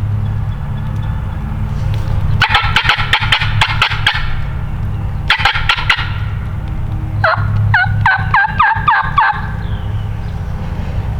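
Wild turkey gobbling: a long rattling gobble, then a shorter one, followed by a run of about seven sharp, falling calls. A steady low hum runs underneath.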